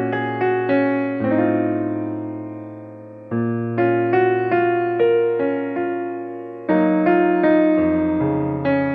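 Background piano music: gentle chords and runs of single notes, each note fading after it is struck, with new chords coming in every second or few.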